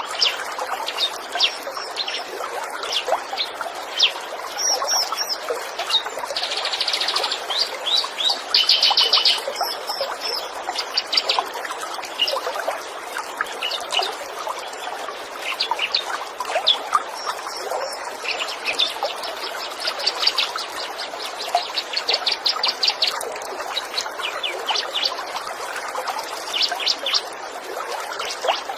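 Small songbirds chirping, with bursts of fast, rapidly repeated trills, over a steady trickle of running water.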